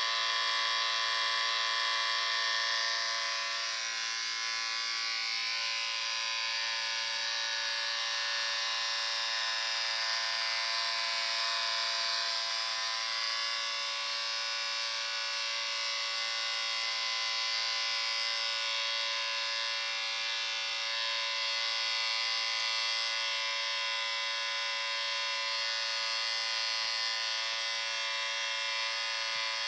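Electric shaver running with a steady buzzing hum.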